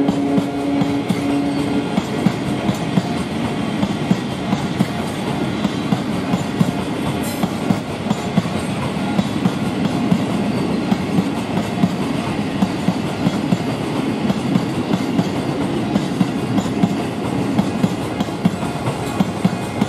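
A freight train of cement tank wagons rolls past, its steel wheels clacking irregularly over the rail joints amid a steady rumble. A steady hum stops about two seconds in.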